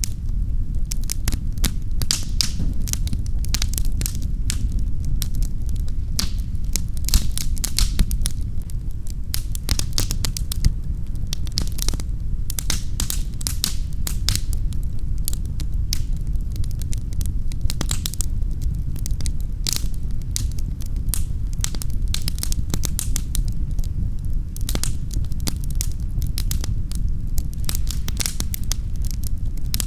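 Wood fire in a fireplace crackling: a steady low rumble with many sharp pops and snaps, several a second, a few louder pops about seven to eight seconds in.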